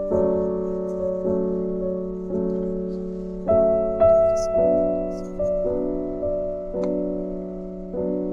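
Background piano music: slow, gentle notes and chords struck about once a second, each ringing and fading.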